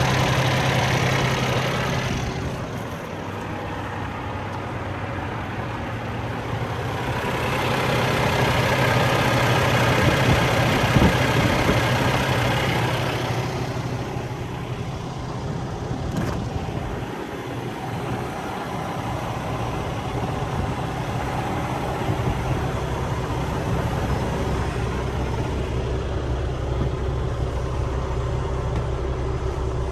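Diesel engine of a 2015 Freightliner Cascadia semi truck running, growing louder for several seconds in the middle before settling back.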